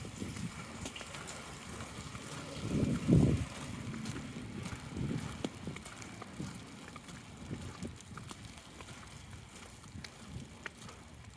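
Wind gusting across the microphone, with the strongest gust about three seconds in.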